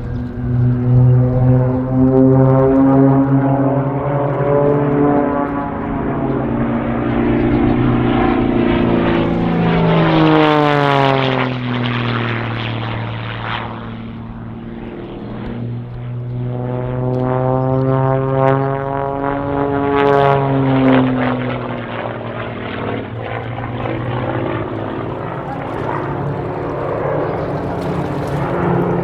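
Propeller aircraft engines droning during an aerobatic formation display, the pitch dropping sharply as the planes pass about ten seconds in and again about twenty seconds in.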